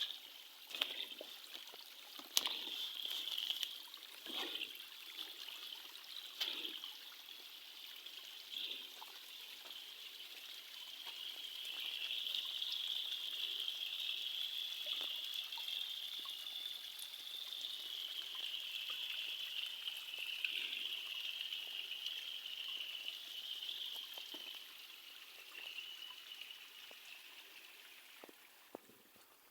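Small stream trickling and babbling over stones, with a few sharp clicks or knocks in the first several seconds.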